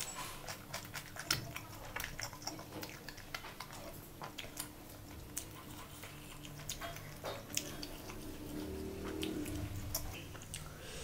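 Close-miked chewing of a mouthful of rice and chicken curry eaten by hand: wet mouth sounds with many small sharp clicks and smacks throughout.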